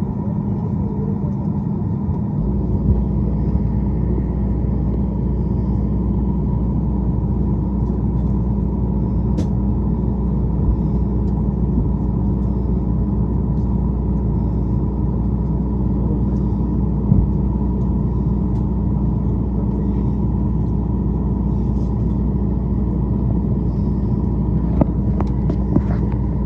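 Steady drone of aircraft and airport ground machinery: a low rumble under a constant hum, with a few light knocks.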